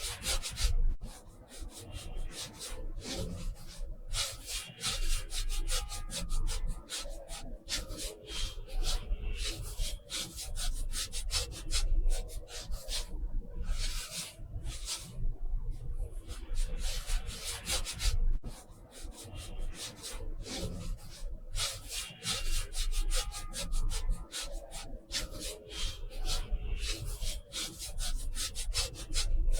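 Brush or pencil strokes rubbing and scratching across watercolor paper, in quick irregular runs with short pauses.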